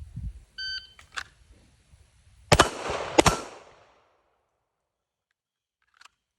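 Shot timer start beep, then about two seconds later two quick pistol shots from a Canik Rival S 9mm, roughly 0.7 s apart, each with a short echo. A faint click follows near the end.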